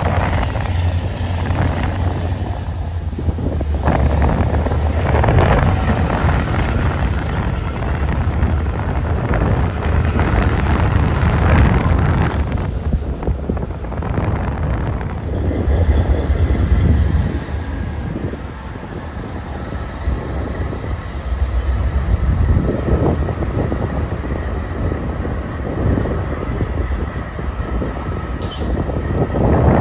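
Double-stack intermodal train rolling across a rail overpass: a continuous heavy rumble and clatter of wheels and cars on the rails. About halfway through, a mid-train GE AC4400CW diesel-electric locomotive passes, and a steady tone joins the rumble.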